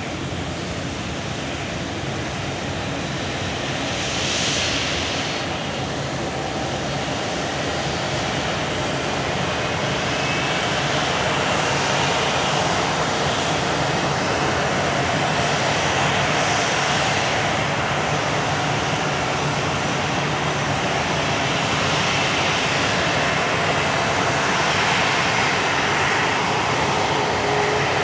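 Jet noise from a Boeing 777-200's Pratt & Whitney PW4074 engines running, a steady rush that slowly grows louder.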